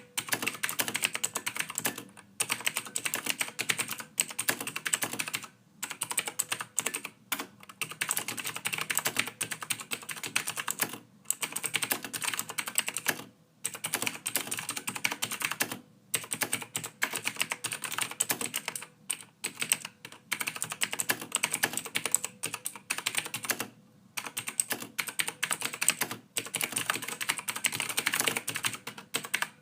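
Computer keyboard being typed on steadily: fast runs of key clicks broken every few seconds by brief pauses.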